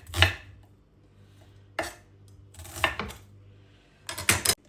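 A kitchen knife chopping on a cutting board, its last stroke just after the start, then scattered knocks and scrapes of utensils and dishes. A quick cluster of clicks comes near the end.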